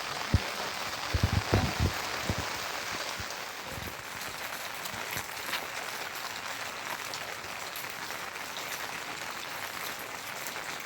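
Steady rain falling, an even hiss with scattered sharp drop ticks. A few dull knocks sound in the first two seconds.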